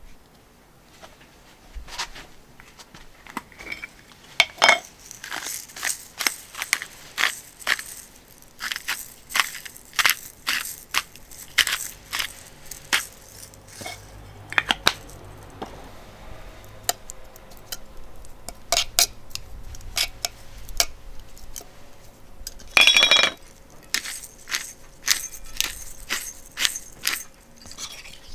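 Cooking utensils tapping, scraping and clinking against a small frying pan in a run of irregular sharp clicks, with one louder ringing metallic clink about four-fifths of the way through.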